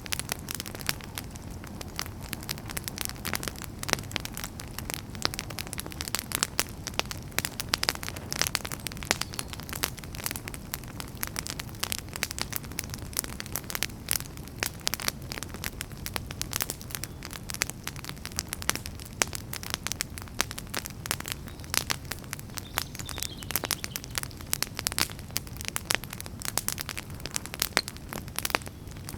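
Wood fire burning in a fireplace, with a steady low rumble of flames and many irregular sharp crackles and pops.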